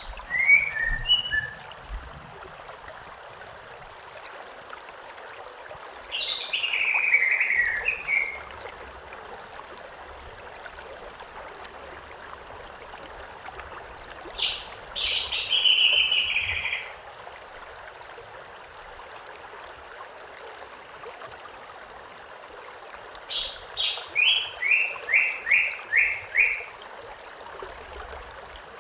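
A songbird singing short phrases, four times roughly eight seconds apart, over the steady rush of a stream. The last phrase is a run of quick repeated notes.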